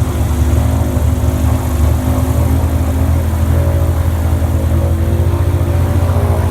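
Motorboat engine running steadily at a constant speed, a loud low drone with no change in pitch.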